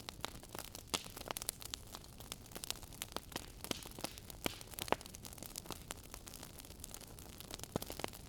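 Wood fire crackling in a fireplace: irregular sharp pops and snaps over a soft steady hiss. The loudest pop comes about five seconds in.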